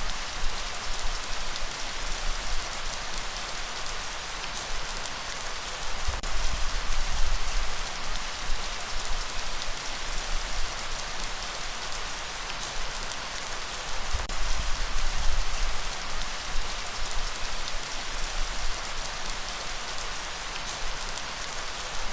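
Steady rainfall, a dense hiss of drops with a few sharper individual drop hits, over a low rumble; the rain swells slightly a few times.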